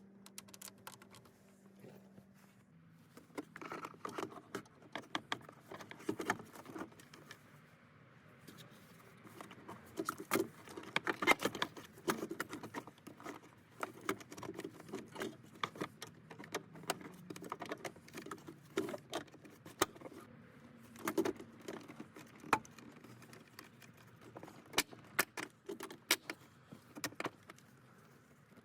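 Irregular metallic clinks, clicks and rattles of hand tools and parts being handled while working on a car engine, busiest about a third of the way in.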